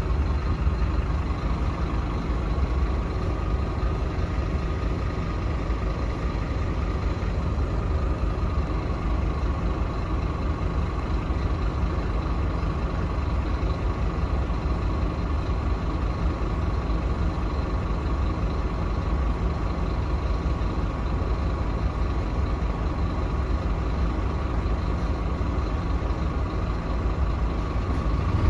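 Scania K310UB bus's five-cylinder diesel engine running steadily, heard from on board, with a low rumble and a faint steady whine.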